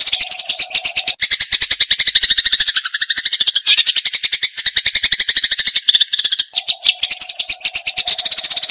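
Eurasian tree sparrow (burung gereja) giving a loud, unbroken chatter of rapid chirps, about ten a second: the agitated fighting call.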